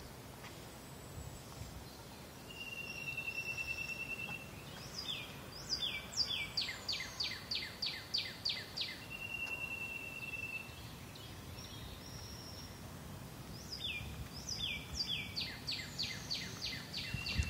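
A songbird singing: a long steady whistled note, then a quick run of about ten descending notes. The phrase comes twice.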